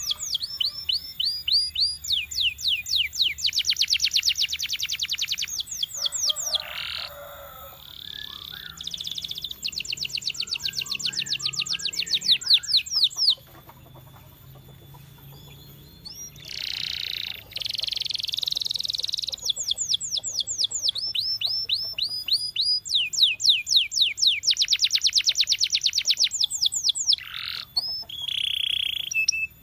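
Domestic canary singing: phrases of rapid high trills, each a fast run of repeated notes, mixed with short buzzy notes. The song breaks off for about three seconds near the middle, then resumes.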